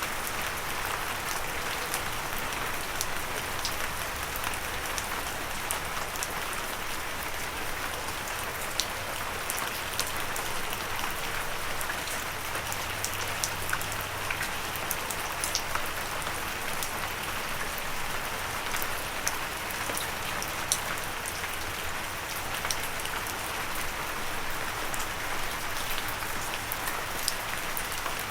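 Steady gentle rain, with a continuous hiss of rainfall and scattered individual drops ticking on a surface.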